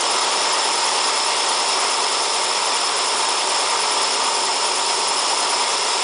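Elliott Omnimill 00 milling machine running with its cutter taking a pass across the tough steel of a railroad-rail anvil. A steady, even running noise with a constant high whine.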